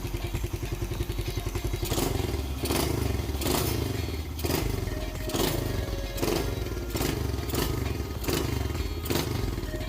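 A motorcycle engine running with a steady low rumble, with sharp thumps recurring about once a second.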